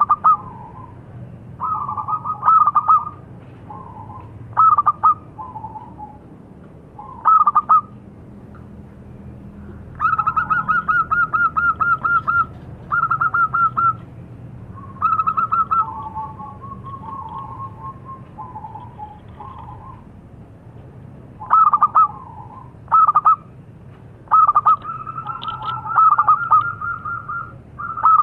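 Zebra dove cooing: short phrases of rapid, pulsed coos repeated every second or two, with a longer run of quick notes near the middle.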